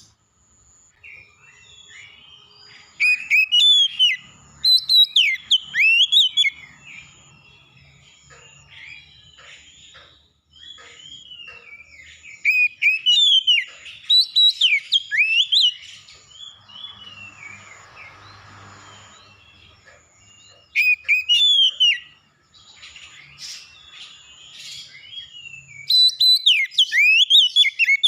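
A songbird singing in four loud bursts of rapid, sweeping whistled phrases, with softer chirping between them. A faint, high, steady tone comes and goes in short dashes throughout.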